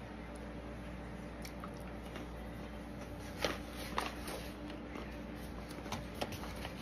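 Chewing of small yogurt-coated pretzels, faint, with a couple of soft crunches about three and a half and four seconds in, over a faint steady hum.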